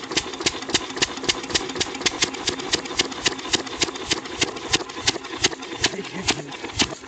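8 HP single-cylinder engine running at a slow, even beat, about four sharp knocks a second.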